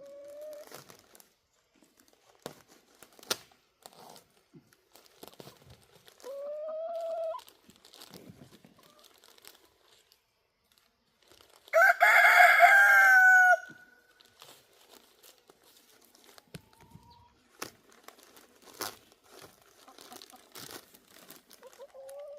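A rooster crows once, loud and about two seconds long, roughly twelve seconds in. A shorter, rising chicken call comes about six seconds in, with scattered light scratching and rustling clicks between the calls.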